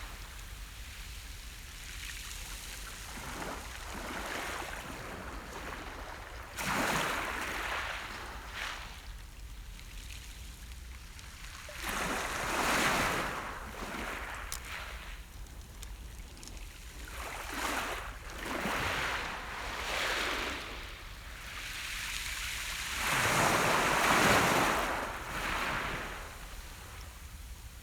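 Sea surf: waves break and wash up the shore in a series of swelling, fading surges every few seconds, the biggest a little before the end.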